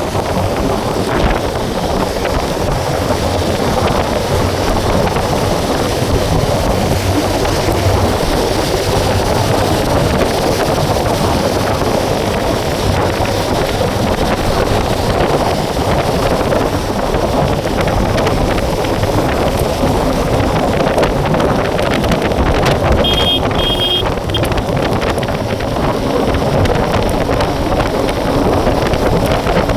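Wind buffeting the microphone on a moving motorbike, over steady road and engine noise in heavy rain. A brief high beeping comes about three-quarters of the way through.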